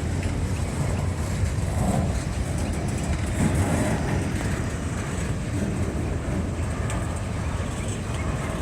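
Auto rack freight cars rolling past on the rails: a steady low rumble of wheels on track.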